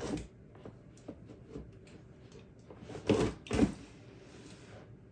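Plastic snake-rack tub being slid and knocked, with two louder scraping bumps about three seconds in between faint clicks.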